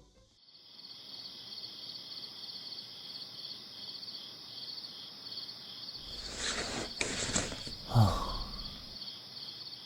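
Crickets chirring steadily in a night ambience. A stretch of rustling comes about six seconds in, and a brief louder sound with a falling pitch about eight seconds in.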